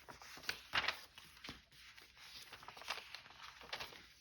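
Paper and card being handled and shuffled: an irregular string of light rustles and taps.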